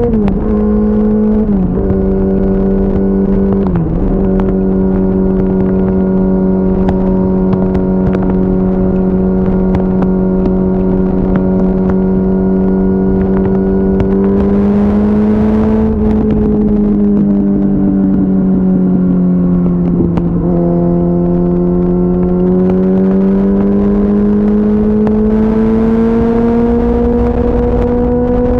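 2004 Yamaha R6's 600 cc inline-four engine cruising at steady high revs. The pitch drops in the first second, holds level, sags slowly for a few seconds past the middle as the throttle eases, then climbs steadily again near the end. Wind rushes over the bike twice, just past the middle and near the end.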